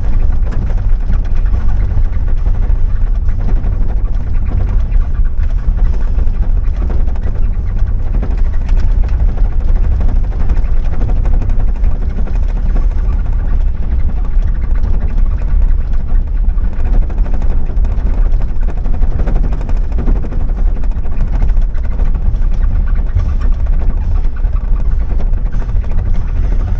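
A vehicle driving: a steady, loud low rumble of engine and road noise that carries on without a break.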